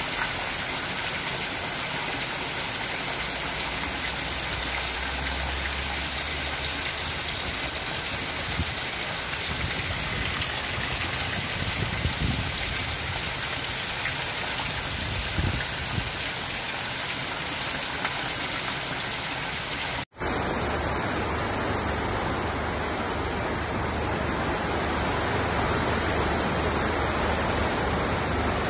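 Heavy rain falling on a zinc roof, with runoff pouring off the roof edge onto grass: a steady, dense hiss. About twenty seconds in it cuts abruptly to the steady rush of a flood-swollen river.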